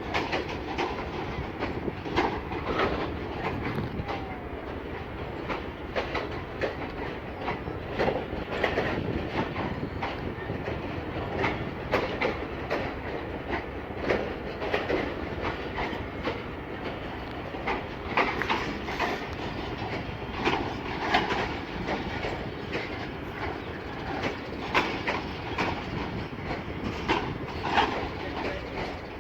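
Passenger train running along the track, a steady rumble with repeated clacks of its wheels over the rail joints.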